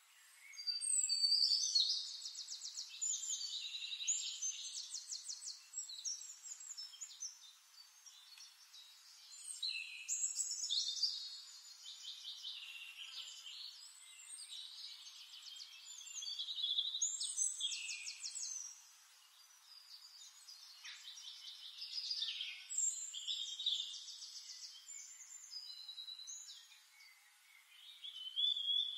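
Songbird singing long, warbling phrases of rapid trills and chirps, one phrase every several seconds with short pauses between.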